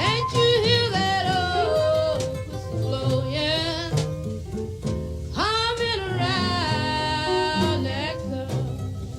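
Woman singing a slow blues in two long phrases with wavering held notes, the second starting about halfway through, backed by a small band of acoustic guitar, piano, bass and drums.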